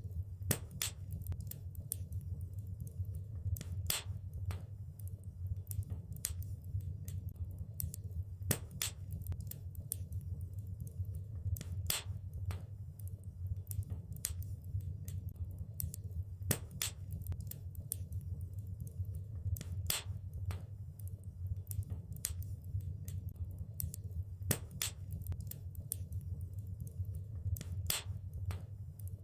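Wood fire crackling in a fireplace: a steady low rumble of the flames with frequent sharp, irregular pops and snaps, a few louder ones scattered through.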